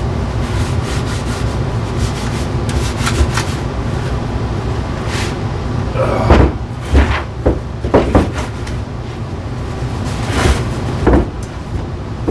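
Wood being rubbed and scraped by hand during chair repair work, with a cluster of short, louder strokes and knocks about halfway through and two more near the end, over a steady low hum.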